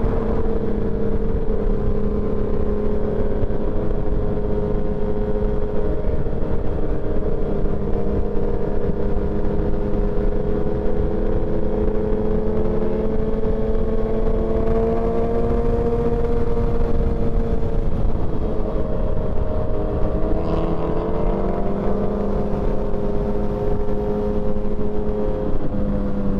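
Motorcycle engine running steadily at highway cruising speed, heard from the bike itself with wind rumble underneath; the engine note drops a little in pitch about twenty seconds in.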